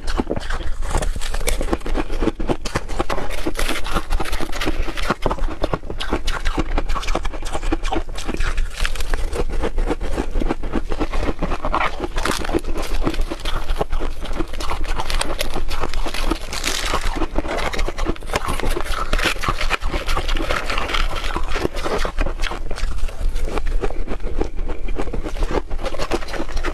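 Hard refrozen ice being bitten and chewed close to the microphone: a dense, continuous run of sharp cracks and crunches.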